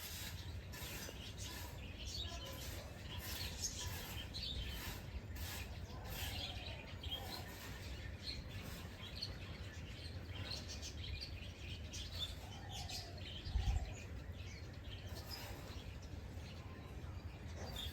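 Several birds chirping and calling over and over, with a few short lower gliding notes among the high chirps, over a steady low rumble. One dull low thump a little past the middle.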